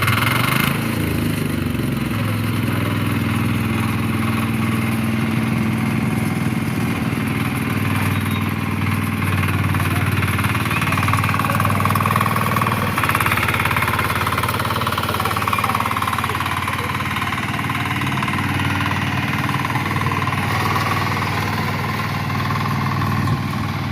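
Power weeder's Kama diesel engine running steadily at a constant speed.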